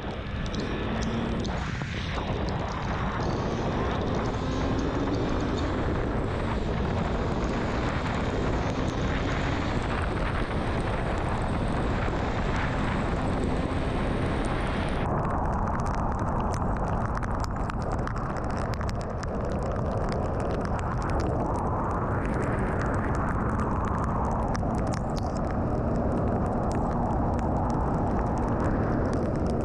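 Honda CB650R's inline-four engine running under dense wind and road noise as the motorcycle rides along, a faint steady engine tone beneath the rush. About halfway through, the high hiss suddenly drops away.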